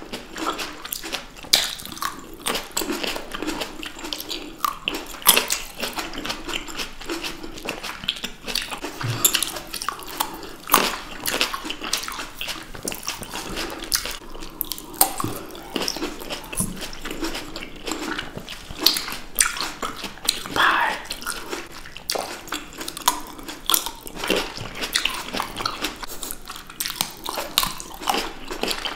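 Close-miked wet chewing and biting of sweet red grapes by two people: a steady run of irregular sharp wet clicks and short crunches.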